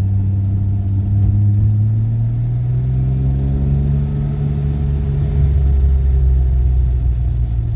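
BMW E30's engine pulling the car along on a drive, its note rising gently over a few seconds and then easing off.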